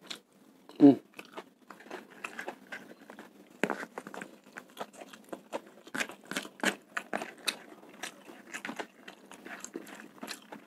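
Close-miked chewing of spicy fried rice and raw bird's eye chillies: an irregular run of crisp crunches and wet mouth clicks. There is a brief hum from the eater about a second in.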